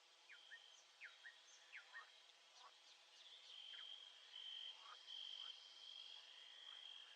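Faint nature ambience: an insect, likely a cricket, trilling steadily on one high pitch, getting louder from about halfway through, with birds giving short falling chirps, most of them in the first two seconds.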